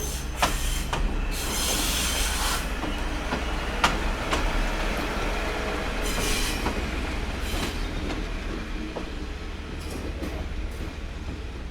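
A train rolling slowly over rail joints and points: sharp wheel clicks and two bursts of high wheel squeal, over a steady low rumble.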